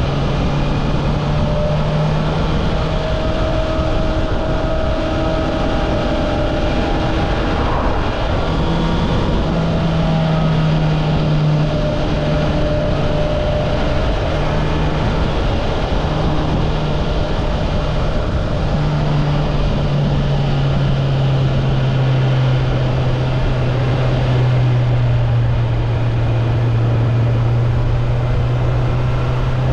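Honda CB650R's inline-four engine through its stock exhaust, running at fairly steady revs while riding, its note shifting slightly in pitch a few times, under a steady rush of wind and road noise.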